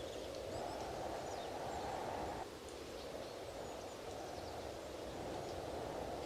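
Strong wind blowing in a steady rush that eases briefly about two and a half seconds in, with faint bird chirps above it.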